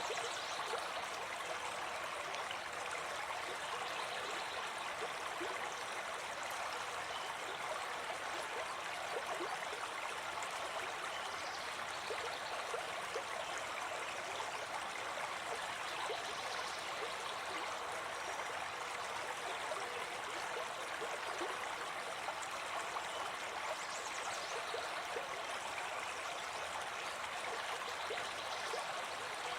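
Forest stream running over stones, a steady babbling rush of water that does not change.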